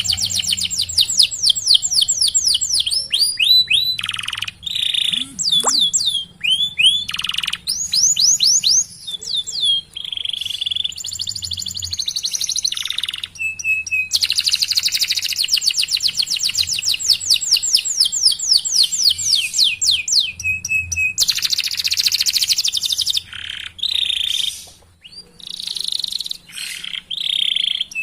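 Domestic canary singing a long song of fast rolling trills and chirps, with many quick falling sweeps in a row and a few short breaks between phrases.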